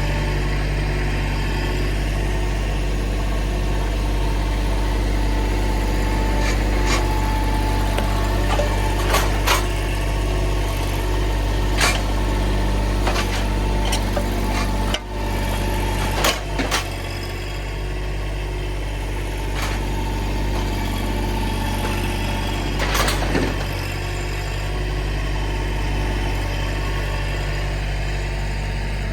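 Mahindra tractor engine running steadily at a constant speed, with a few sharp clacks and knocks scattered through.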